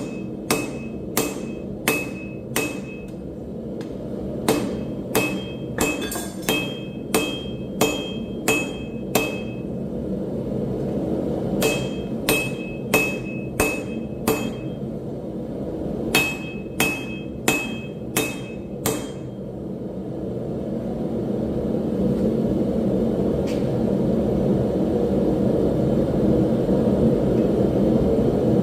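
Hammer blows forging steel on an anvil, in four runs of several strikes at about two a second, each strike leaving a high ring. After about twenty seconds the hammering stops and a steady rushing roar builds and grows louder.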